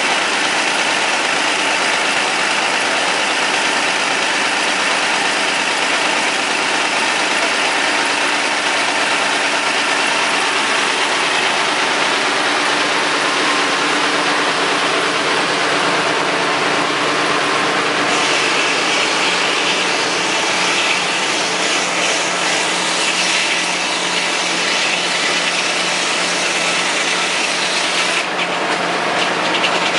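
Vintage Caterpillar D13000 diesel engine running steadily while driving a sawmill, mixed with the gritty noise of the saw cutting wood. The sound turns harsher and grittier about eighteen seconds in, and again shortly before the end.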